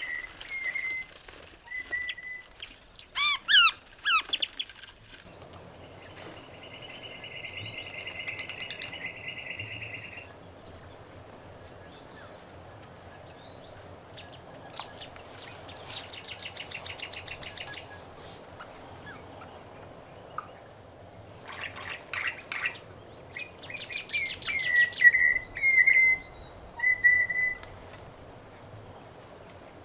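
Wild birds calling, several kinds. There are short whistled notes near the start and again near the end, a few loud sweeping calls about three seconds in, and a steady buzzy trill from about six to ten seconds.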